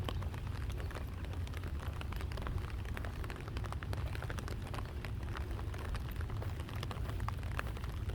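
Rain falling, with many scattered drop ticks over a steady low rumble.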